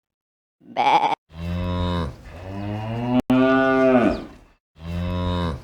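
A last short sheep bleat just before a second in, then a cow mooing: several long, low moos in a row.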